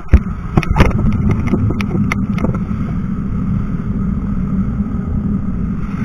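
Wind rumbling on the microphone of a moving bicycle, with a run of clicks and knocks from the bike rattling over the road in the first couple of seconds.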